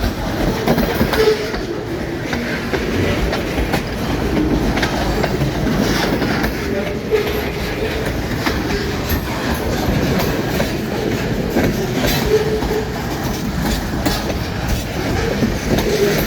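Cars of a long train rolling past close by: a steady rumble, with wheels clicking over the rail joints throughout.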